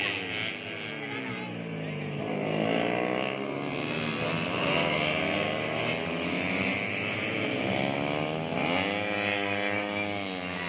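Four-stroke 150cc underbone racing motorcycles revving as they pass, several engines overlapping, their pitch falling as they slow and then rising again as they accelerate, with another sharp climb in revs near the end.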